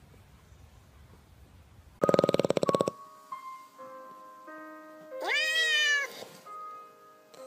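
Music with held notes from a phone speaker, and over it a dog's single long howl that rises and then falls, about a second long. Just before the music starts comes a brief loud buzzing rattle.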